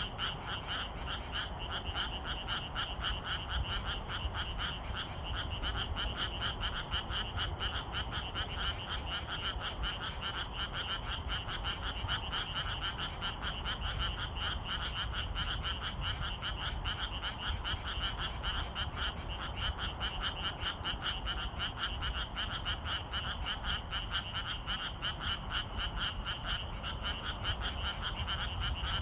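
A dense evening chorus of many frogs calling at once: rapid, overlapping pulsed croaks that merge into a continuous, steady din.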